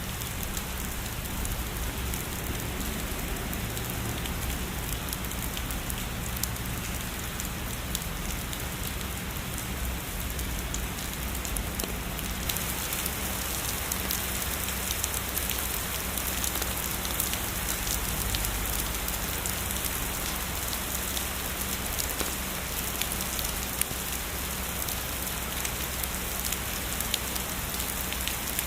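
Heavy rain falling steadily, a continuous hiss dotted with the ticks of individual drops. The hiss grows brighter about twelve seconds in.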